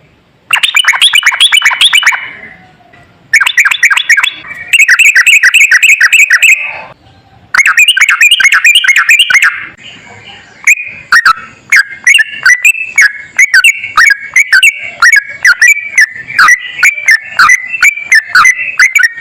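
Sooty-headed bulbul (trucukan) singing in rapid, chattering runs of repeated notes. It sings in several phrases broken by short pauses, and the last runs on for about eight seconds.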